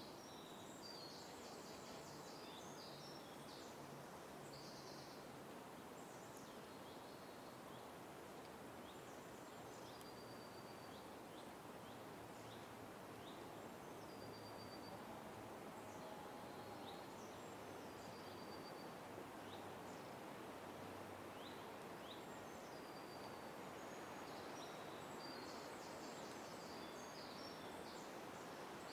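Small birds chirping and twittering faintly: short high whistled notes, quick downward-sweeping calls and rapid clusters of notes, busiest near the start and near the end, over a steady background hiss.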